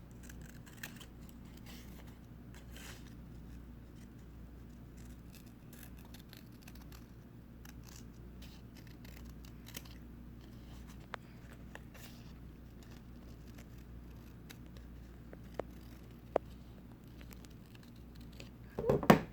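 Scissors cutting construction paper in small snips, with faint paper rustling and a few sharp clicks of the blades. A louder handling noise comes just before the end.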